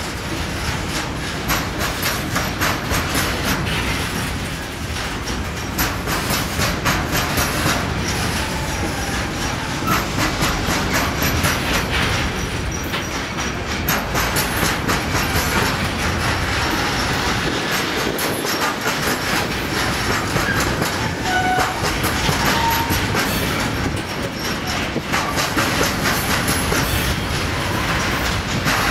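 Container freight train of flat wagons rolling past at steady speed, its wheels clattering rhythmically over the rail joints. A few brief high wheel squeals come through about a third of the way in and again past the middle.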